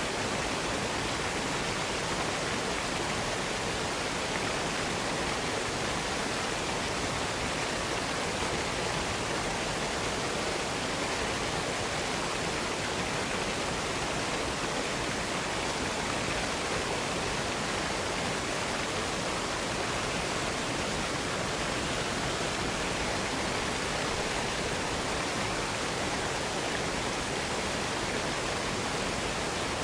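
Waterfall running: a steady, even rush of falling water that does not change.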